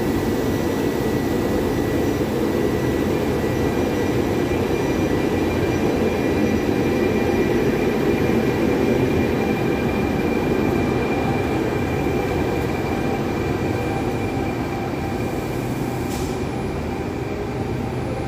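Passenger train of coaches rolling steadily along the platform, pushed by an E.464 electric locomotive at the rear: a continuous rumble of wheels on rail with a thin high whine over it, easing slightly near the end.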